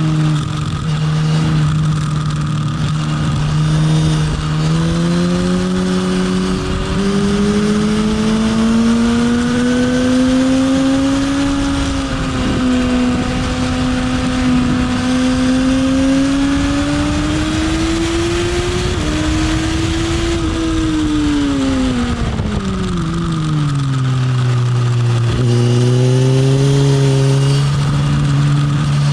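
Motorcycle engine on track, heard from on board: the engine note climbs in steps and then gradually under acceleration, drops steadily for several seconds about two-thirds of the way through as the bike slows, and picks up again near the end. A rough rumble of wind noise runs underneath.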